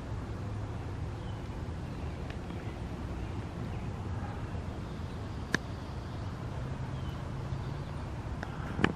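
Outdoor ambience: a steady low rumble with faint, scattered bird chirps, and two sharp clicks, one about halfway through and one near the end.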